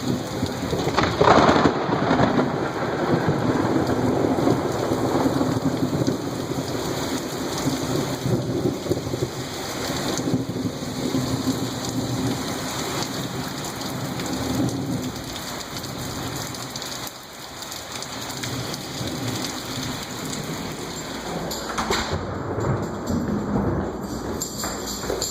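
Heavy rain falling steadily while a sharp thunderclap breaks about a second in and rolls into a long rumble lasting over ten seconds; another thunderclap starts near the end.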